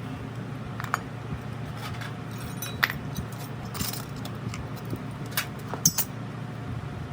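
Small metal parts clinking and tapping against each other or a hard surface, five or so sharp clicks spread over a steady low hum.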